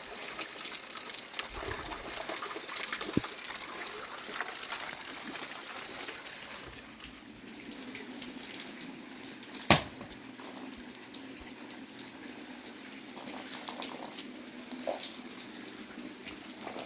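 Water running and trickling in a steady hiss, with scattered small ticks and one sharp knock about ten seconds in.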